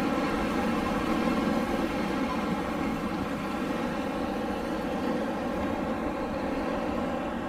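Wind blowing steadily, a dense rushing noise with a faint hum-like banding, easing off slightly toward the end.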